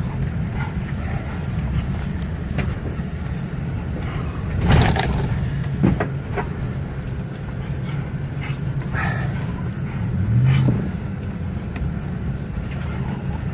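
Steady rumble of a car driving, heard inside its cabin, with a dog making short sounds several times. A louder sharp noise comes about five seconds in, and a click a second later.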